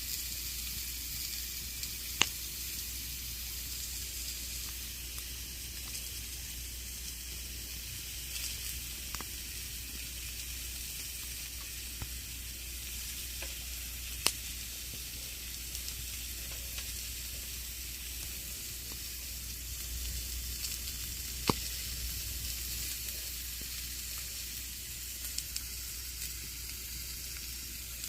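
Campfire burning: a steady soft hiss with scattered small crackles and a few sharp, loud pops from the burning wood.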